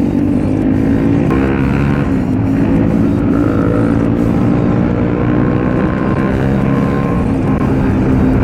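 Kawasaki ZX-10R's inline-four engine on its stock exhaust running under way, its pitch rising and falling as the throttle opens and closes.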